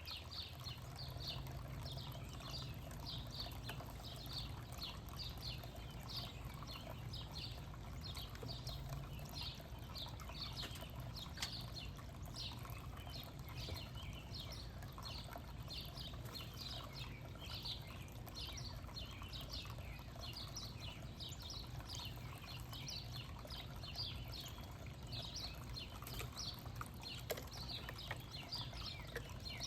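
Small birds chirping: many short, high chirps overlapping continuously, over a steady low hum.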